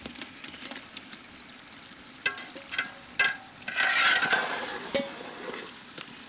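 Baby potatoes frying in masala in a pan, stirred with a metal spoon that scrapes and clinks against the pan several times over a low sizzle, with the longest scrape about four seconds in.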